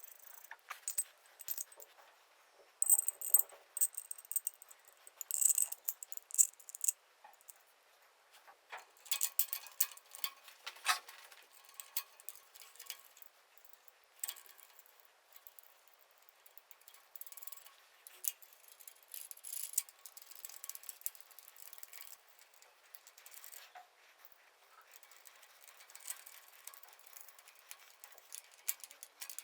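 Irregular metallic clinks, clicks and rattles of small hard parts and tools being handled, in uneven clusters with short pauses between them.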